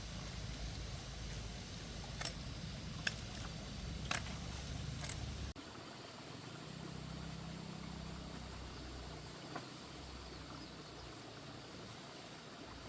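A steady low rumble that drops away abruptly about five and a half seconds in, with a few short sharp knocks or snaps scattered through it.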